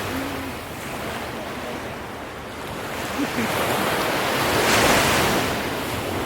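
Ocean surf: waves washing in as a rushing hiss that ebbs and then swells to its loudest about five seconds in.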